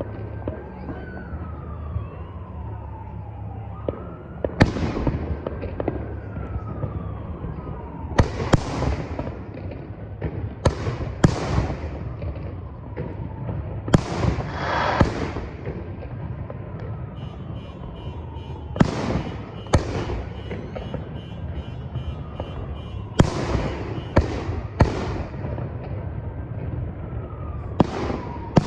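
Fireworks bursting overhead: about a dozen sharp bangs at uneven intervals, some in quick pairs. Faint falling whistles sound between the bangs.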